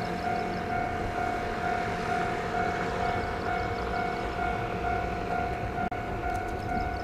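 Railway level-crossing warning bell ringing in a steady, evenly repeating ding, over the low rumble of an approaching train.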